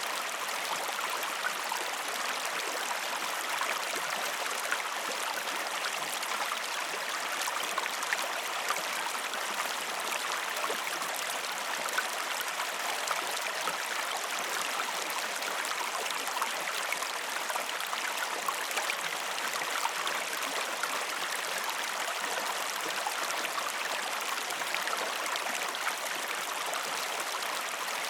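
River water running steadily, an even rushing sound with fine splashy detail and no deep rumble.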